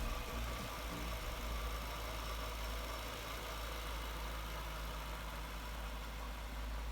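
1998 Jaguar XKR's supercharged 4.0-litre V8 idling steadily with a low, even hum.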